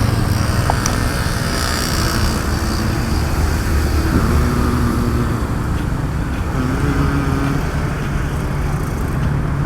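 Motor vehicle engines and road traffic running steadily, with a low rumble and engine pitch shifting up and down a few times.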